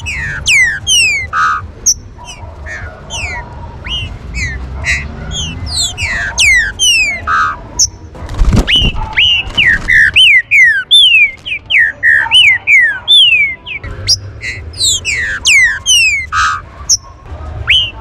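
Green-winged saltators (trinca-ferro) calling: a fast, busy run of sharp downward-sliding whistled notes and chips, the female-style chatter played to rouse males. A low thump comes about eight and a half seconds in, followed by a string of louder down-slurred whistles, roughly two a second.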